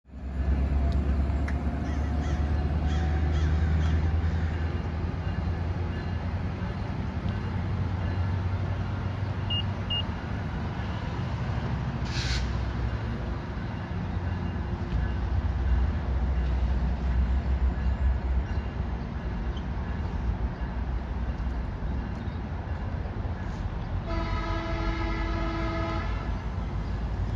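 A train rumbles steadily and low, and near the end its horn sounds once for about two seconds.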